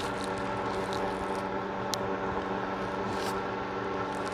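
Steady machine hum with a buzzing, multi-tone character, with a light click about two seconds in and a brief soft rustle a second later.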